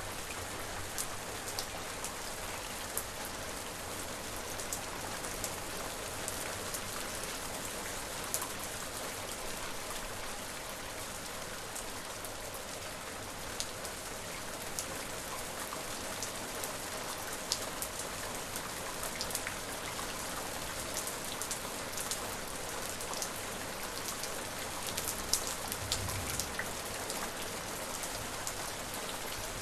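Steady rain: an even hiss of falling rain with many separate drops ticking sharply and close.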